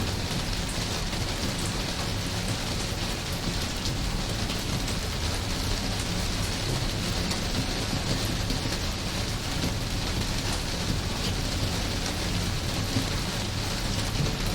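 Steady rain falling, a continuous dense hiss with a low rumble underneath and fine scattered drop ticks, unchanging throughout: a rain white-noise track for sleep.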